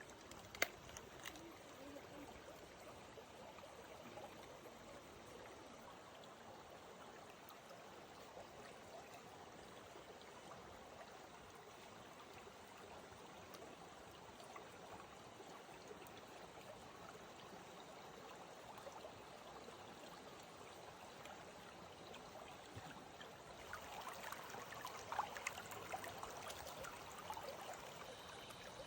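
Faint, steady rush of running water. There is a sharp click just under a second in, and the water grows busier and a little louder near the end.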